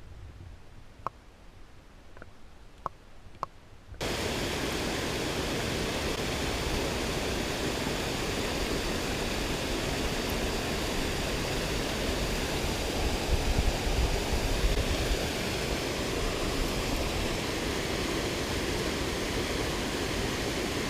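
Rushing creek water, a steady roar of noise that cuts in suddenly about four seconds in and swells a little partway through. Before that it is quiet, with a few small sharp clicks.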